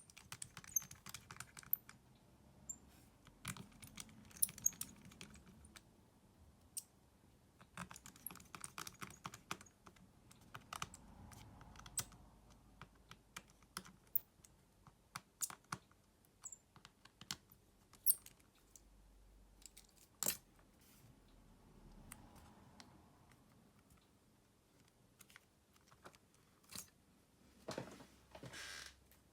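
Irregular small clicks and taps of tools and plastic and metal phone parts being handled while a Xiaomi Redmi A2 smartphone is taken apart, with a short scraping sound near the end.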